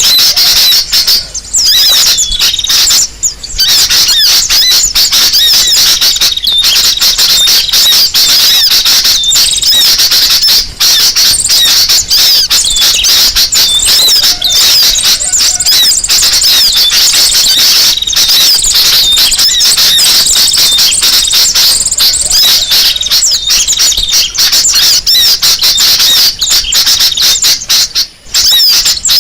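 Bird-luring recording of many small birds chattering and twittering at once: a dense, continuous mass of high-pitched chirps, loud throughout with a few brief breaks. Played to draw wild birds in close.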